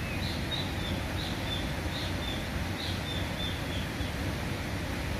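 A small bird repeating a short, high two-note call about once a second, fading out about four seconds in, over a steady low background rush.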